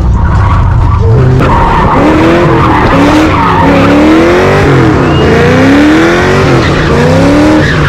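Car engine revving hard, its pitch climbing and falling again and again, while the tyres squeal and skid through a burnout or donut. The sound is loud and cuts off suddenly at the end.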